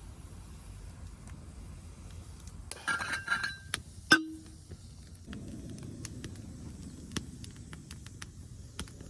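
A few light metallic clinks, then one sharp metal clank that rings briefly, about four seconds in, over a low steady rumble.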